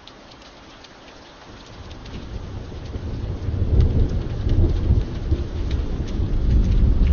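Steady rain with scattered sharp drops, and a deep rumble of thunder that swells up about two seconds in and keeps rolling loudly to the end.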